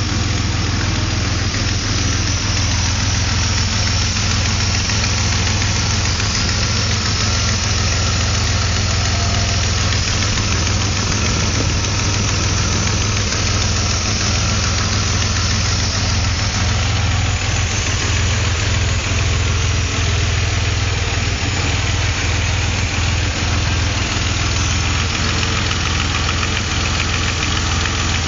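A steady hiss over a low, steady hum, with no change in level.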